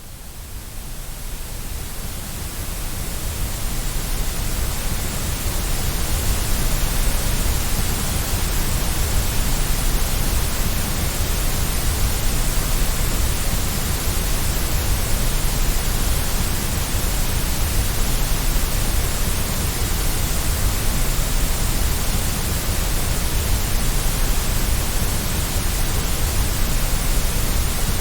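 Steady white noise, an even hiss with no pattern to it, fading in over the first few seconds and then holding level.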